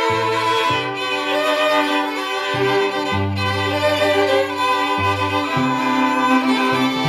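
Bowed string ensemble of violins and cello playing sustained chords, with the low bass line moving to a new note every second or so.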